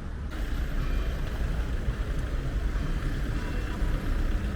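Outdoor street ambience: a steady low rumble under a continuous hiss, with no distinct events.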